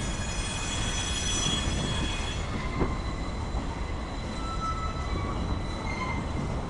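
Cars of a mixed freight train rolling past, steel wheels squealing in high, thin tones over a steady rumble. The squeal changes pitch about two and a half seconds in.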